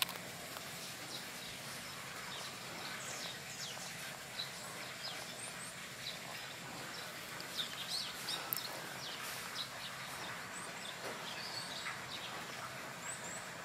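Small birds chirping: many short high chirps scattered over a steady background hiss, busiest about three to four seconds in and again around eight seconds in.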